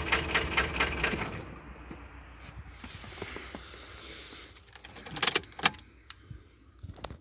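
Ford Transit 2.4 diesel engine knocking rhythmically and misfiring at idle, then dying away as it stalls about a second and a half in. A few sharp clicks and clunks follow near the end.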